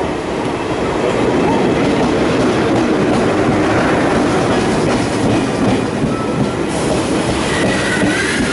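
TGV high-speed train arriving at the platform and rolling past close by: a steady rumble and rattle of its wheels and running gear. Thin high squeals set in near the end.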